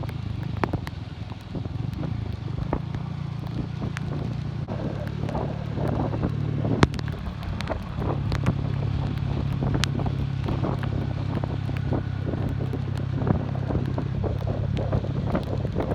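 Classic Earl 150 motorcycle engine running at a steady cruising speed, with wind rushing over the microphone and scattered sharp clicks and taps; the engine's pitch shifts slightly about halfway through.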